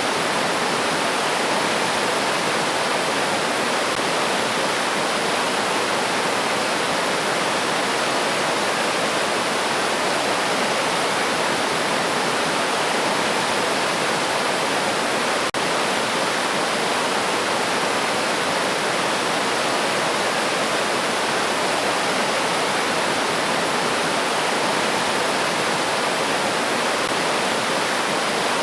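River water flowing and rushing steadily and evenly.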